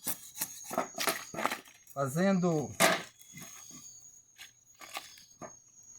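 A machete blade shaving thin curls of wood off a split log for fire tinder, with several short, sharp cracking strokes as the wood splits away.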